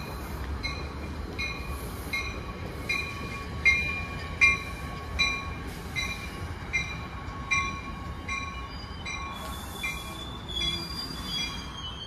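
Train running through the station: a steady rail rumble with a faint held squeal, and a short high ringing tone repeating two to three times a second.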